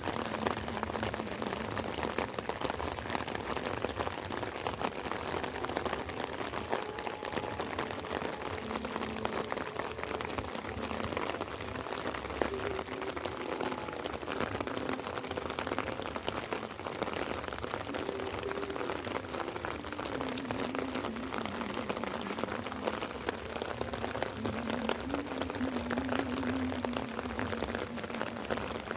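Light rain falling steadily, a dense patter of drops on the surfaces around.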